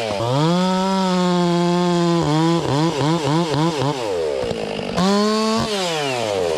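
Stihl MS460 two-stroke chainsaw held at full throttle, dipping briefly just after the start. It then gives about five quick throttle blips, falls toward idle, revs up again, and drops back to idle near the end.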